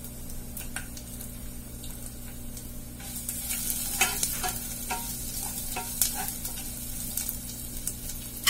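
Crushed garlic, curry leaves and mustard seeds sizzling in hot oil in a small pan, a tempering for rasam. About three seconds in a wooden spatula starts stirring, and the sizzle grows louder, with scattered clicks and taps.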